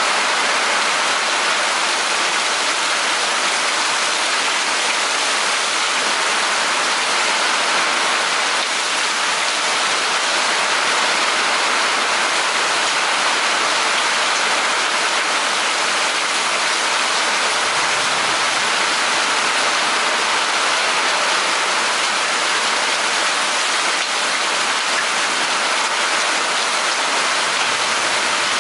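Steady rain falling in a thunderstorm: an even, unbroken hiss that holds at the same level throughout.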